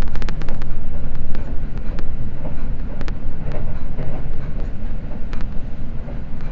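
Seibu Limited Express Red Arrow train running at speed, a loud steady rumble of wheels on rail. Sharp clicks cut through it: a quick run of them at the start, then a few scattered ones.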